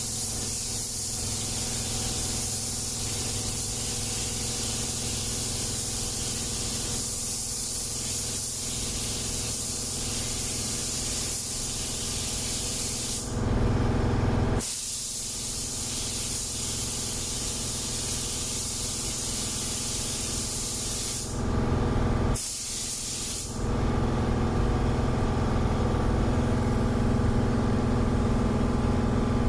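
Paint spray gun hissing steadily as paint is sprayed onto car body panels, with a low steady hum beneath. The hiss breaks off briefly twice as the trigger is released.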